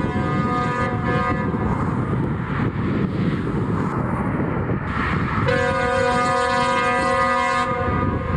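Train horn sounding a steady multi-tone chord: a blast that ends about a second in, a short toot just after, then another blast of about two seconds from around five and a half seconds in, over steady rumbling noise.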